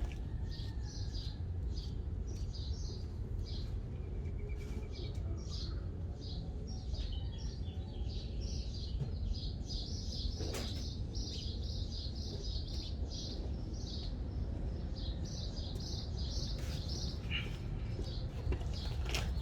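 Small birds chirping in quick, repeated short notes over a steady low rumble, with a few brief clicks, one of them about halfway through.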